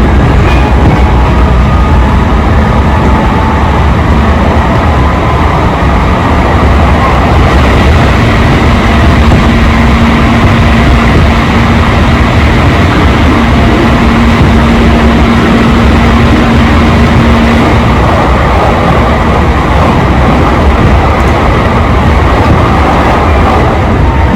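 JR Tokaido Line electric train running between stations, heard from inside the car: a steady, loud rumble of wheels on rail, with a faint steady hum that holds for about ten seconds in the middle.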